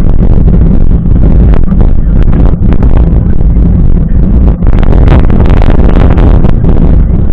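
Heavy wind buffeting and rumble on the camera's microphone while riding a mountain bike, with rattles and knocks from the bike on the rough trail.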